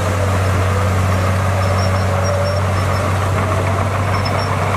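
Heavy diesel engine of earthmoving equipment running steadily at a constant speed, a loud, even low drone.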